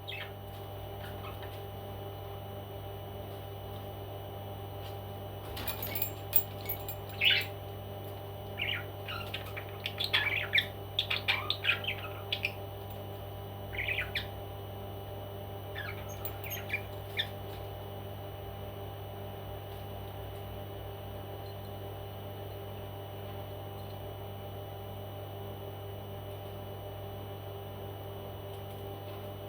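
Pet parrot making a run of short, sharp calls over a steady electrical hum; the calls stop a little past halfway and only the hum remains.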